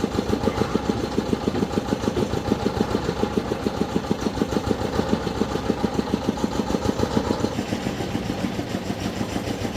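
Engine idling with an even chugging pulse of about seven beats a second, softening slightly near the end.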